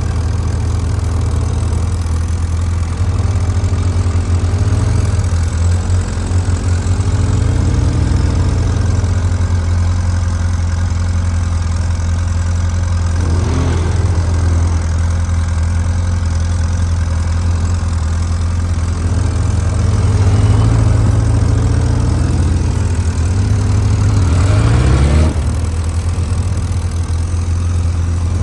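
Motorcycle engine running at low speed, its revs rising and falling several times over a steady low drone.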